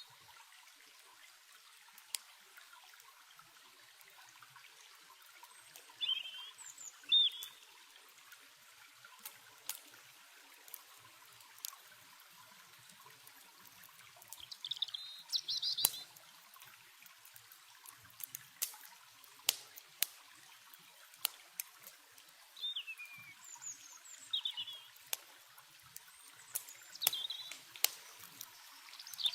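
Trickling stream water with songbirds giving short high chirps several times, and scattered sharp pops from a crackling campfire.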